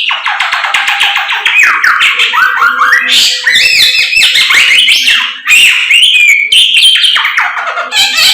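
Samyong songbird in full, loud song: a continuous stream of rapid trills and quick falling and arching whistled notes.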